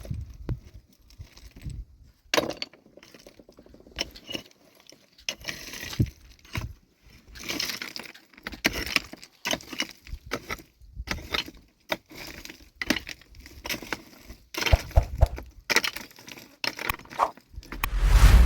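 Stones knocking and clinking together in irregular strikes, with short stretches of scraping, as rock is broken and cleared. A loud low rumble comes near the end.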